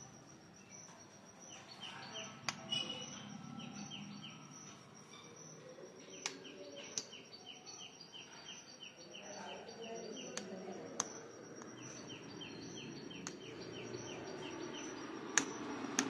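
A bird chirping rapidly, about five short chirps a second, in three runs of a few seconds each, over a steady high-pitched whine and a low hum. A few sharp clicks are scattered through.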